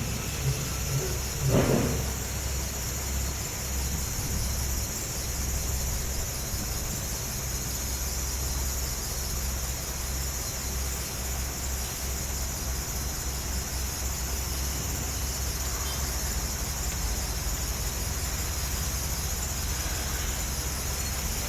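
Heavy equipment's diesel engine running with a steady low rumble as the machine drives up onto a truck, with one brief louder burst about a second and a half in, over a constant high-pitched hiss.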